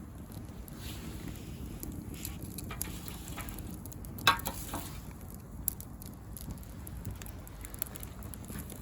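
Bonfire of dry pruned branches crackling steadily, with scattered small pops and one sharp loud pop a little over four seconds in.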